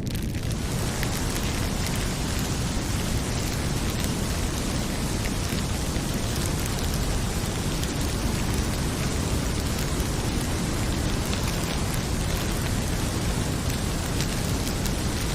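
Heavy rain pouring steadily with a deep, constant rumble, mixed with the light, scattered crackling of a wood fire.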